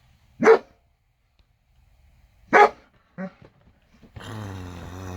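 Dog barking: two loud single barks about two seconds apart and a softer third soon after, then a drawn-out low growl near the end.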